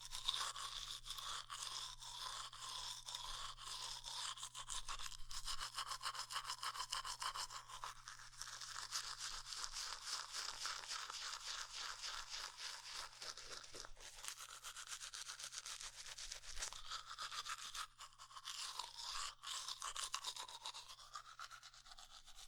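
Close-up rapid bristle-brush scrubbing, many quick strokes, made as ASMR tooth-brushing sounds for a teeth cleaning. It pauses briefly about four seconds before the end, then resumes.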